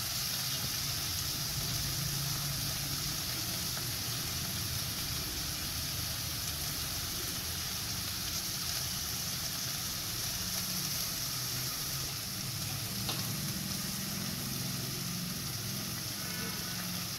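Mixed vegetables sizzling steadily in hot oil in a stainless steel pan as they sauté, with one light click about two-thirds through.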